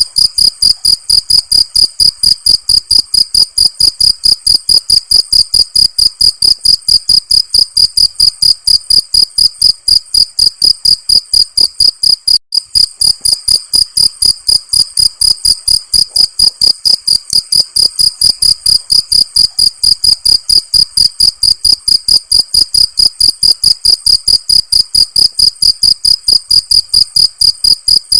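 Cricket chirping in a steady, even rhythm of about three high-pitched chirps a second, with a momentary break about twelve seconds in.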